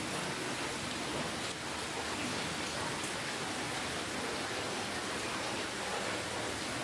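Steady rainfall, an even hiss of many drops with faint scattered drop ticks.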